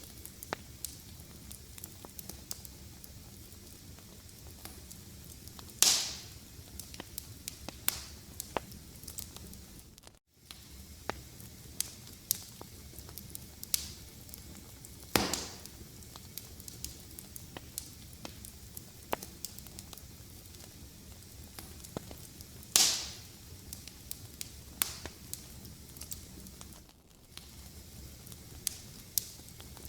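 Wood fire crackling, with a steady stream of small snaps and three louder pops that each die away over about half a second. The sound briefly drops out twice.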